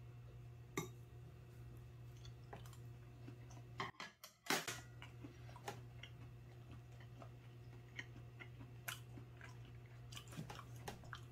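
A person chewing raw swordtip squid (hanchi) sashimi: quiet chewing with many small scattered clicks over a steady low hum. A louder knock comes about four and a half seconds in.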